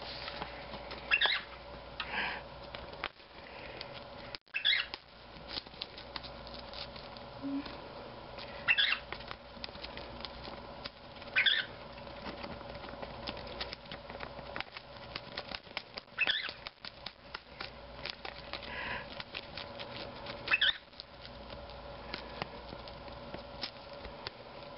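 Lovebird picking and tearing at a paper envelope with its beak: a dense run of small clicks and paper rustles, with short chirps every few seconds over a faint steady hum.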